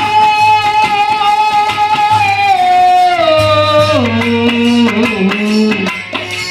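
Bhojpuri birha folk song with harmonium and tabla: a long held high note that steps down in pitch about three seconds in and settles lower, over a repeating low drum pulse.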